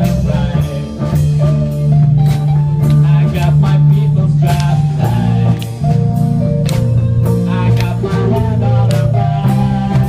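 A live rock band playing, with a drum kit striking cymbals at a regular beat over bass and electric guitar.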